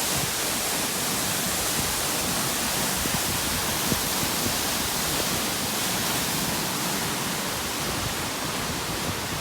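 Waterfall, close by: a steady rush of falling water.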